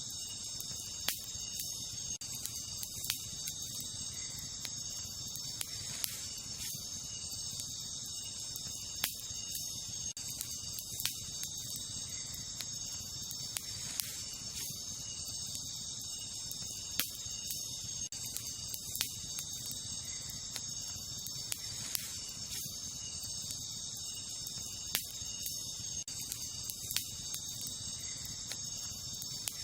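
Wood campfire crackling, with sharp pops coming irregularly every second or two, over a steady high-pitched chorus of night insects such as crickets.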